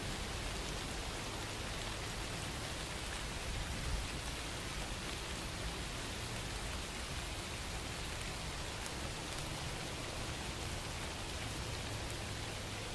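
Steady rain-sound track: an even wash of rain falling, with occasional faint drop ticks.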